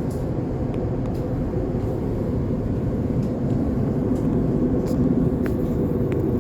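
Elizabeth line Class 345 train running, heard from inside the carriage: a steady low rumble, getting a little louder about halfway through, with a few faint ticks.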